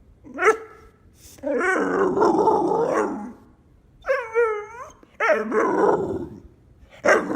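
A dog 'talking': a series of drawn-out, wavering vocal moans and grumbles mixed with a short yip. There is one brief sound near the start, a long wavering one, a shorter higher whine past the middle, and two more after that.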